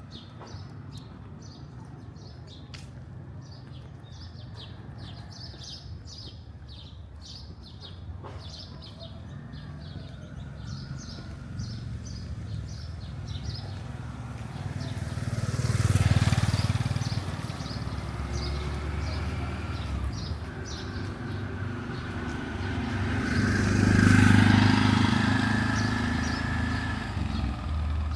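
Street traffic ambience: birds chirping rapidly over a low traffic hum, then two vehicles passing close, about a third of the way through and again near the end, the second one the loudest.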